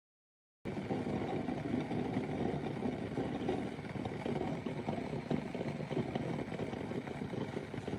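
Coffee maker brewing: a steady, rough running sound with water gurgling through, starting abruptly just under a second in.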